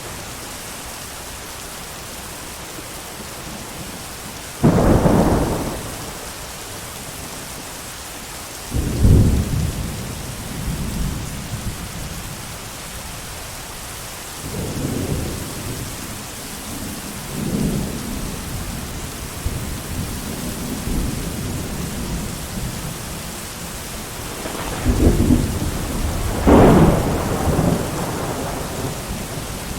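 Steady rain with thunder rumbling over it. A sharp clap opens into a rumble about five seconds in, another comes about nine seconds in, softer rolls follow, and a double peal sounds near the end.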